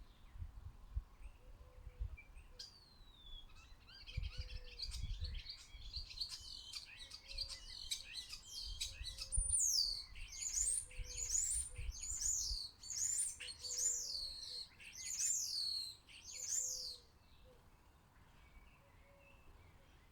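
Small garden songbirds chirping and twittering, building about four seconds in into a run of about eight loud, high calls that each sweep downward, roughly one a second, stopping a few seconds before the end.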